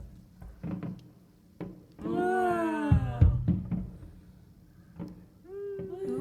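Fireworks going off at a distance as a scatter of low thumps, with a person's long, drawn-out 'wow' about two seconds in and another exclaimed voice near the end.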